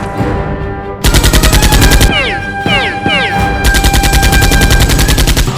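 Rapid automatic gunfire, a machine-gun sound effect, starting about a second in as a fast, even rattle of shots that runs on, with a few short falling whistles in the middle. Background music plays before the gunfire starts.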